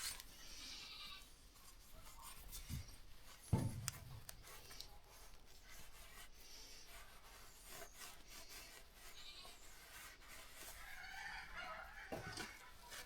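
Small cylinder hone working inside a motorcycle cylinder bore, a faint, uneven scraping with squeaks, to open up the tight center so the piston will fit. A single knock comes about three and a half seconds in.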